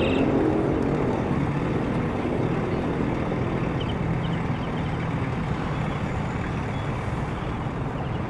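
City street traffic: the engine of a large vehicle runs close by and slowly fades, over a steady wash of road noise.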